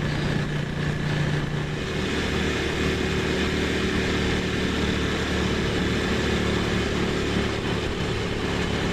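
Ducati Monster's L-twin engine running steadily under way, with its note stepping lower about two seconds in, over a steady hiss of wind.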